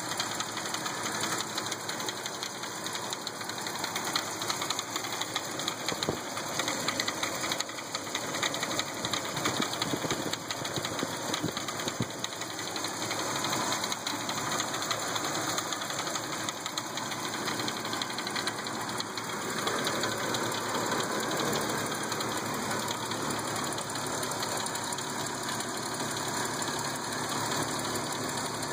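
The engine of a 1978 Ford Fairmont wagon idling steadily, heard close up in the open engine bay.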